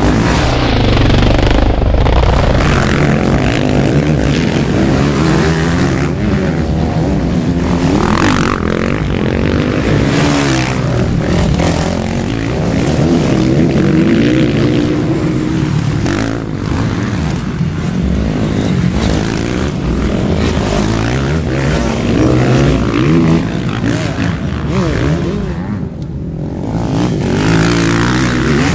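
Motocross bike engines revving hard, the pitch rising and falling over and over as the riders accelerate, shift and back off through the course.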